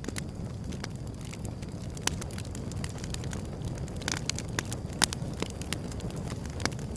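Wood fire burning, with a steady low rumble and scattered sharp crackles and pops, the loudest pop about five seconds in.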